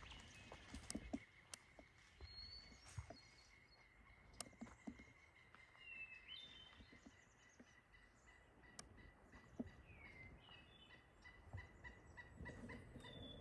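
Faint bird calls: short downward-sliding chirps every few seconds over a thin steady high tone, with a few sharp ticks.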